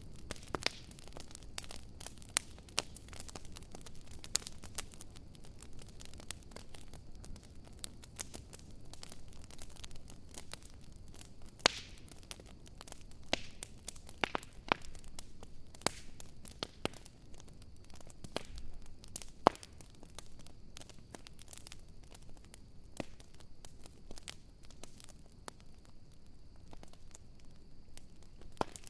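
Wood fire crackling, with irregular sharp pops and snaps over a low steady rush of burning. A faint steady high whine comes in during the second half.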